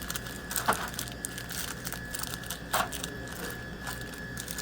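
Plastic-wrapped chocolate bars crinkling and rustling as they are handled and slid into a vending machine's spiral coil, with two sharper crackles, about a second in and near the three-second mark.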